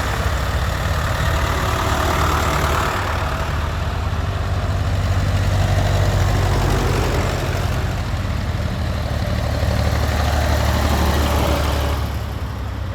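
Tractor engine running steadily with a low, even engine note, easing off slightly near the end.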